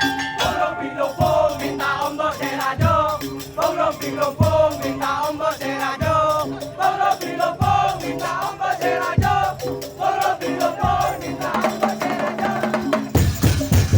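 Madurese tong-tong parade band playing live: a wavering melody line over rattles and a low drum stroke about every second and a half, with the full percussion coming in loudly near the end.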